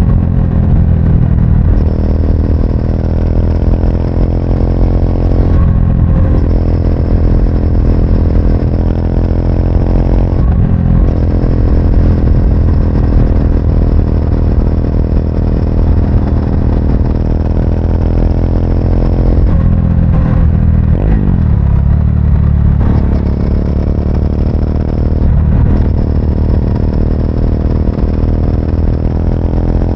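Triumph Speed 400's single-cylinder engine under way, its pitch climbing and then breaking off briefly several times as it shifts up through the gears. Around twenty seconds in, the pitch falls away as the bike slows, then climbs again.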